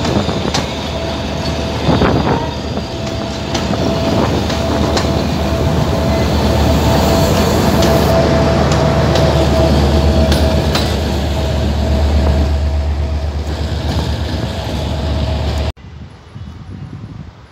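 Passenger train passing close by: coach wheels clicking over rail joints with a steady whine, then the diesel locomotive's low engine rumble, loudest in the middle. The sound cuts off suddenly near the end, leaving quieter outdoor background.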